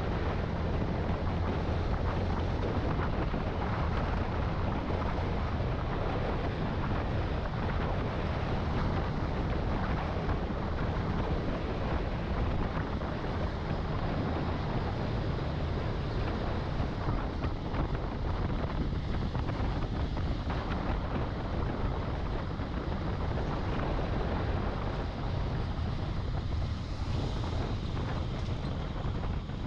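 Wind rushing over the microphone with the steady engine and road noise of a Yamaha Sniper 155 VVA (Exciter 155) motorcycle cruising at an even speed.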